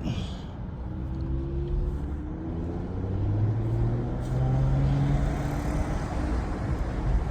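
2024 Mercedes-AMG GLE Coupe's engine pulling under acceleration, its pitch rising slowly over several seconds and getting louder, then holding roughly steady near the end.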